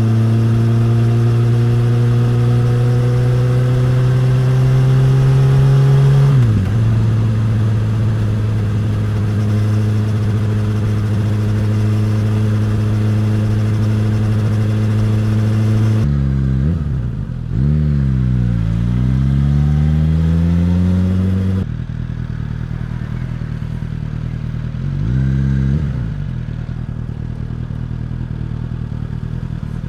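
Suzuki GSX-S1000's inline-four engine and exhaust running under way. The revs climb slowly and then drop sharply about six seconds in, as at a gear change. Past the middle the revs fall and rise again, and near the end the engine runs quieter, with one short blip of revs.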